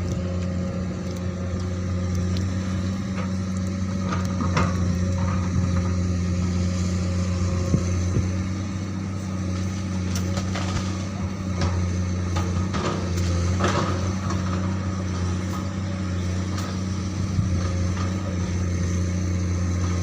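Komatsu PC200 excavator's diesel engine running steadily under work, with scattered short knocks and clanks from the digging.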